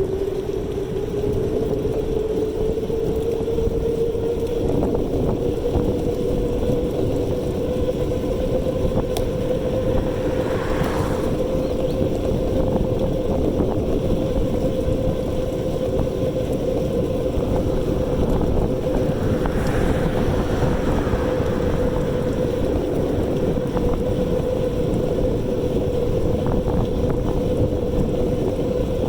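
E-bike's electric motor whining, rising in pitch over the first few seconds as the bike gains speed, then holding steady, over a continuous low rush of wind and road noise.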